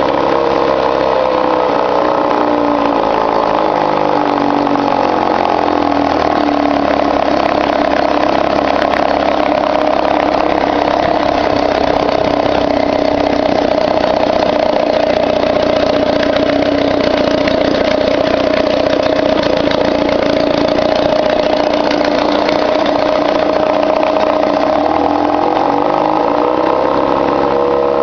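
1953 Mercury Mark 15 two-stroke outboard motor running, revved up over the first few seconds, held at higher speed, then eased back down near the end. It runs without flooding, its carburetor float height corrected.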